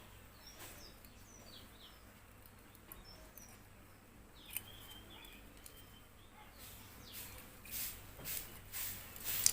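Faint bird chirps in the background, with soft clicks and rustles of hands working the wires at the fan's switch toward the end.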